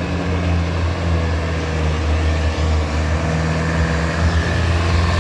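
Heavy vehicle engine running steadily at a low pitch, slowly growing louder, typical of a truck labouring up a steep grade.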